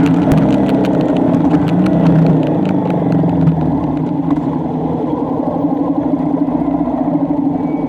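A road vehicle's engine running while under way, easing off and getting quieter about three to four seconds in, with a series of faint clicks in the first few seconds.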